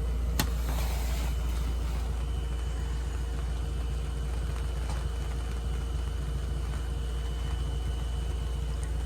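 A steady low machine hum, engine-like, with a faint steady high whine over it, and one sharp click about half a second in.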